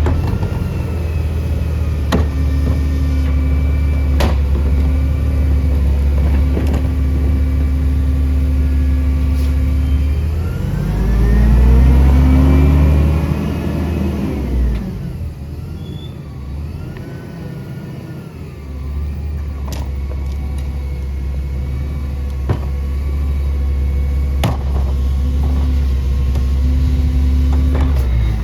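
CNG garbage truck engine running steadily. About ten seconds in it revs up and falls back, then settles at a lower level before returning to its steady run. Occasional short knocks sound over it.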